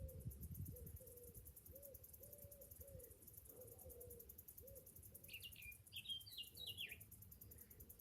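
Cicadas calling in a steady, fast-pulsing high chorus. Over it comes a run of low, evenly repeated hooting notes in the first half, then a short burst of quick higher chirps from a bird about five seconds in.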